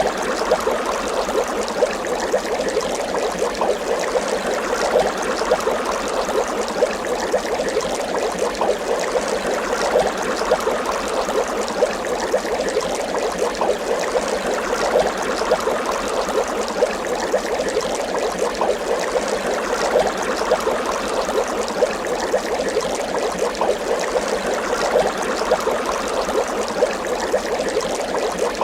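Water bubbling steadily: a dense, continuous stream of small bubbles popping and gurgling.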